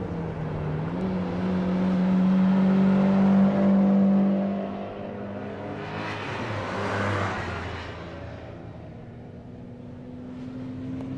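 Supercar engine running with a steady drone that is loudest in the first few seconds. About seven seconds in, a car goes by with a rush of noise, and a quieter engine note rises slightly near the end.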